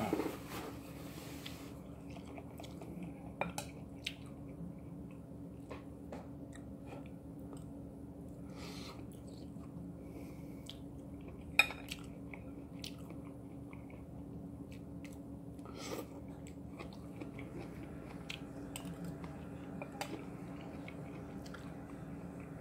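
Close-up chewing of a mouthful of hot mixed vegetables (corn, carrots, asparagus), with scattered clicks of a fork against the dish and one sharper clink near the middle. A steady low hum runs underneath.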